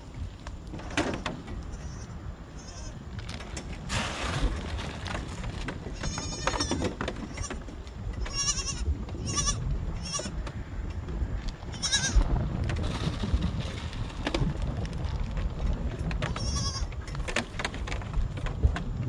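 Baby goats bleating, several short, high, quavering calls in a row, over the low rumble of wind on the microphone.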